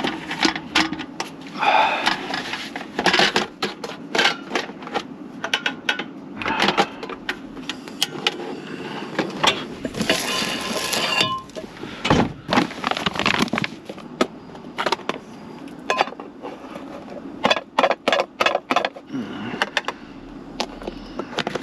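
Irregular clicks, knocks and clatter of objects being handled at close range, with a brief rushing hiss about ten seconds in.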